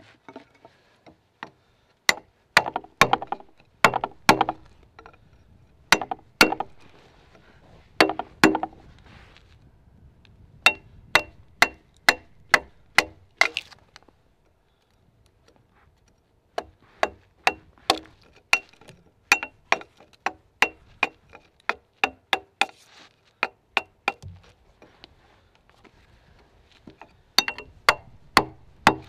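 Axe chopping into a log timber: runs of sharp blows, about two a second, each with a short metallic ring, with a brief pause about halfway through.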